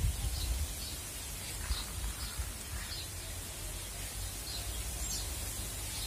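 Outdoor garden ambience: faint, short bird chirps here and there over a low, steady rumble.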